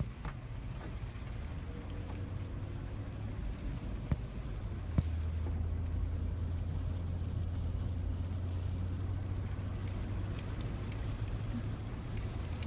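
A vehicle running with a steady low rumble. There are two sharp knocks, about four and five seconds in, and the rumble is louder after the second.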